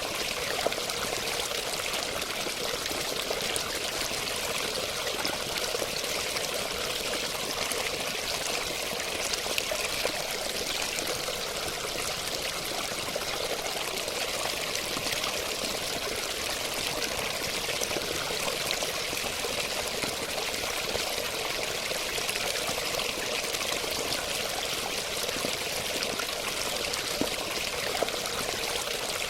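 Running water: a steady, unbroken rush of flowing water, mostly hissy and high with little low rumble, and a few faint splashes here and there.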